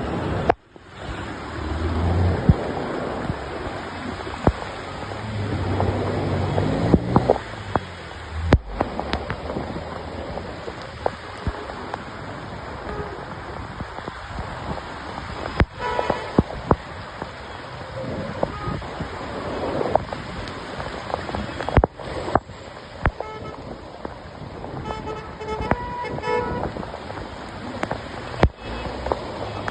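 Steady downpour of rain with road traffic passing, a vehicle speeding up, and car horns honking several times near the end.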